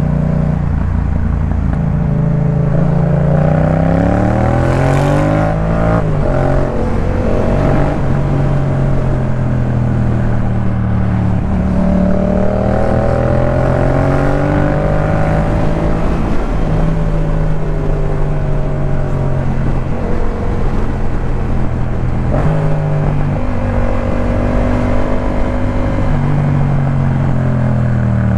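Yamaha MT-07's parallel-twin engine through a Jeskap K4 full exhaust, accelerating and shifting up through the gears several times, the exhaust note rising and then dropping at each change.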